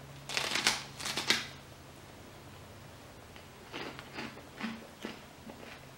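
Crunchy puffed corn stick (seaweed corn bar) being bitten and chewed: a burst of crackly crunching in the first second and a half, then a few softer, spaced chewing crunches near the end.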